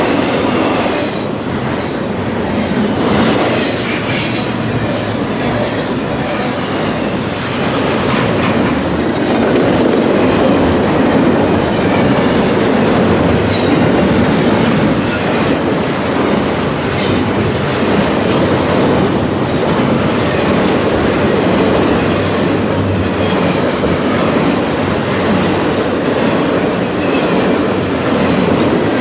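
Railway cars rolling steadily along the track, wheels clicking over the rail joints, with several brief high wheel squeals along the way.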